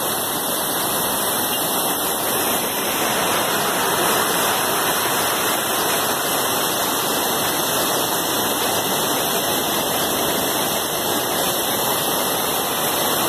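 Steady, even rush of water from heavy rain and rising floodwater.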